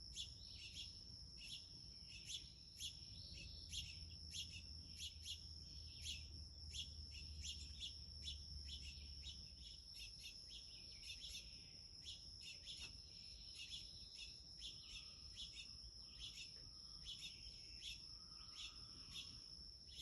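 Small birds chirping faintly, short high chirps repeating about two or three times a second, over a steady high-pitched hum.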